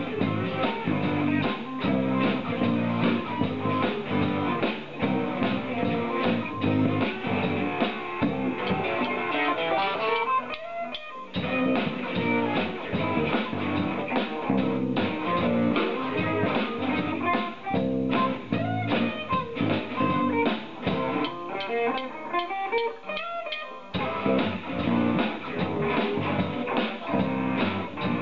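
Live rock band playing: electric guitar with bass and drum kit. The low end drops out briefly about ten seconds in and again for several seconds past the middle, leaving mostly guitar.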